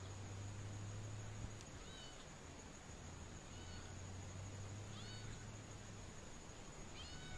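A kitten meowing faintly about five times, short high-pitched mews spaced a second or two apart, over a low steady hum.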